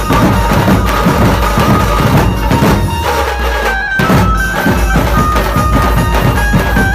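Chhattisgarhi dhumal band playing: dense, fast drumming under a high melody of held notes. The drums drop away for about a second, three seconds in, then come back in full.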